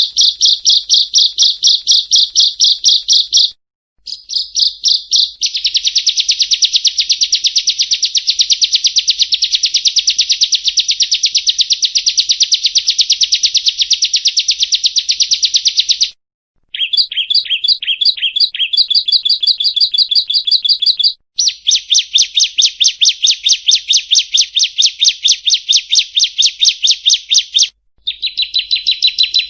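Prinia (perenjak) singing: long runs of rapid, evenly repeated high chips, many a second. The runs are broken by brief silences about 4, 16, 21 and 28 seconds in.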